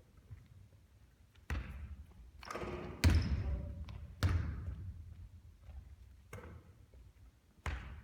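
A basketball bouncing on a gym floor, four separate thuds with the loudest about three seconds in, each one echoing in a large hall.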